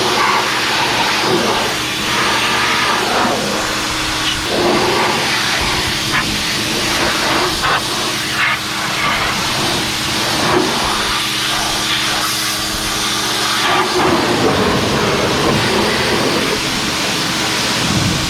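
A machine running steadily with a low hum and a loud hiss over it.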